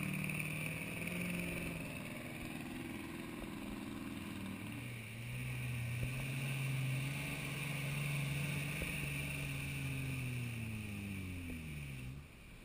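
A 4x4 off-road vehicle's engine revving under load. Its pitch rises and holds, dips about four seconds in, climbs again, then falls and drops off near the end.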